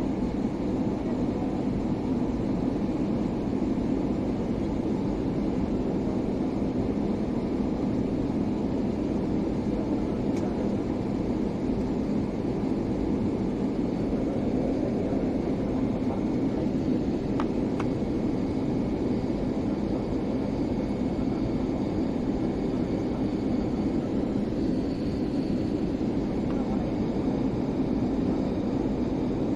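Steady cabin noise of a passenger jet airliner on approach: an even rush of engine and airflow, heaviest in the low-middle range, with no change in level.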